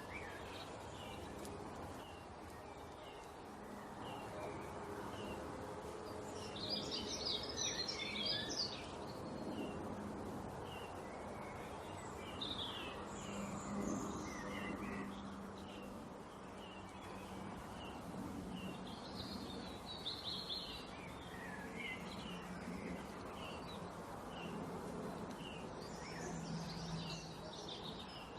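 Small songbirds chirping: one bird repeats a short chirp about every half second, and three times a burst of rapid, higher twittering breaks in, over a steady low background hum.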